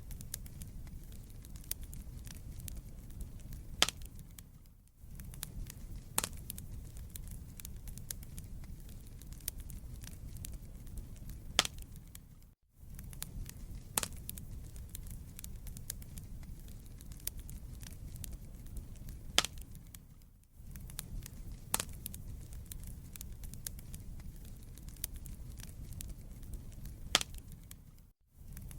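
Wood fire burning in a fireplace: a steady low rumble of flames with frequent sharp crackles and pops. The sound cuts out briefly about every eight seconds and the same pattern of pops comes round again, as in a looped recording.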